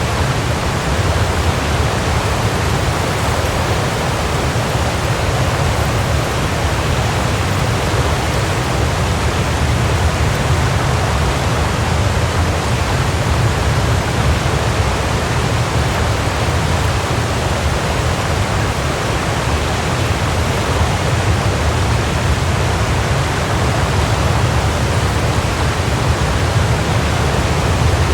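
Waterfall: water falling and crashing in a steady, unbroken rush, with a deep low rumble.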